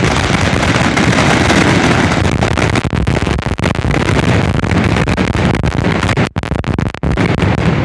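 Fireworks grand finale heard close up from the firing site: a dense, unbroken barrage of mortar-fired shells and cakes launching and bursting, the blasts running together, with two brief gaps near the end.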